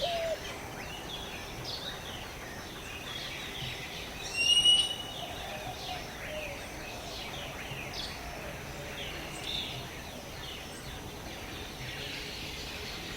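Jungle bird chorus: many small birds chirping and twittering, with one loud, clear whistled note about four and a half seconds in and a dove cooing faintly in the background.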